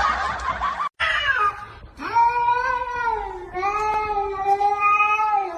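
A loud rushing noise that cuts off abruptly just under a second in, then a cat's short falling cry followed by two long, drawn-out yowling meows, the second held for about two seconds.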